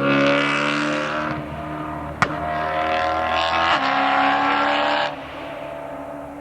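Straight-piped BMW E90 M3's S65 V8 exhaust running loud at high revs, with one sharp crack about two seconds in. The engine note cuts off suddenly about five seconds in.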